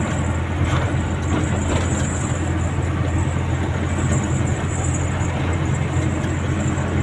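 Loaded truck's diesel engine running with a steady low drone, heard from the cab.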